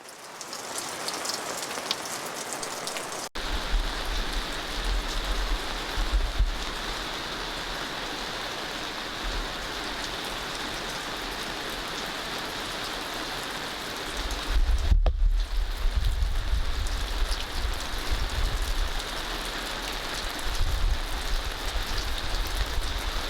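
Heavy rain pouring steadily, a dense even hiss, with a deep low rumble joining in after about three seconds.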